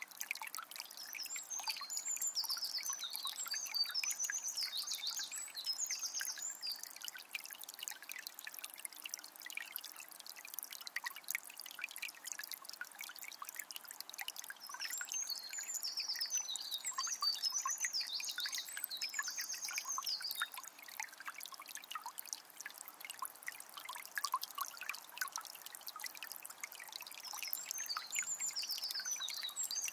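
A calm forest river trickling and babbling over stones, full of small splashes. A songbird sings in bursts of rapid high trills three times, about a second in, around the middle and near the end.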